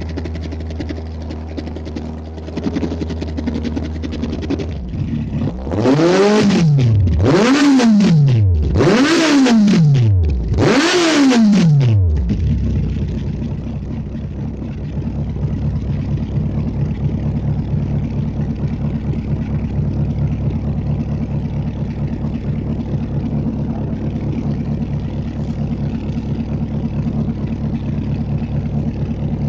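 Kawasaki Z800's inline-four engine through an SPR Racing aftermarket exhaust, idling, then blipped four times in quick succession, each rev rising and falling, before settling back to a steady idle.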